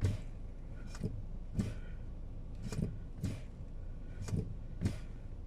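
Brake pedal of a 2023 Lada Vesta NG being pressed and released repeatedly, giving sharp clicks in pairs about half a second apart, three times over. The pedal is being cycled to test a brake-pedal sensor that lights the brake lights only intermittently.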